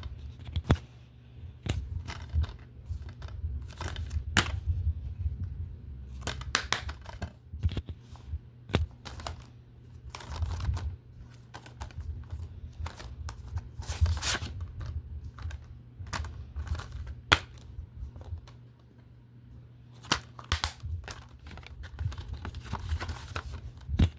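Plastic DVD and Blu-ray cases being handled: irregular clicks and knocks with crinkly rustling, over a low rumble of handling noise on the microphone.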